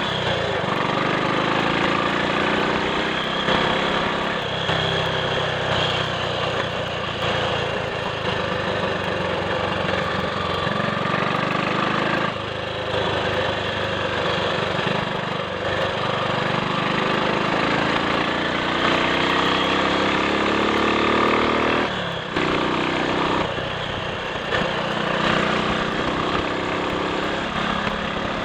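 Triumph Sports Cub's 199 cc single-cylinder four-stroke engine running on the road. Its revs climb and drop back several times as it pulls through the gears.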